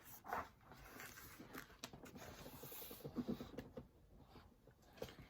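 Faint rustling and small clicks of paper as a picture book's page is handled and turned.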